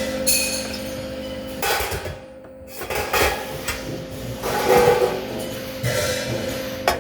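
Metal knocking and clattering several times in a welding shop, with a sharp click near the end, over a steady machine hum.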